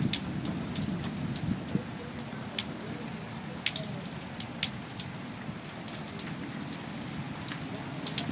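Heavy rain falling, a steady hiss with scattered sharp drop hits on a nearby surface.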